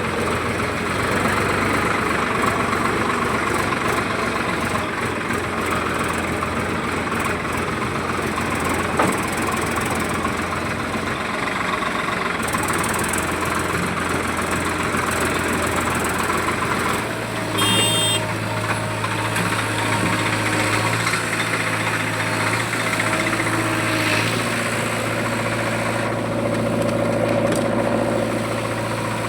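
Diesel engine of heavy farm machinery running steadily; about two-thirds of the way through its note shifts to a steadier low hum, with a brief sharp sound just after.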